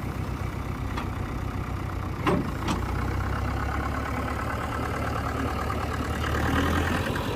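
Tractor diesel engine idling steadily, with a few short sharp knocks about one and two seconds in.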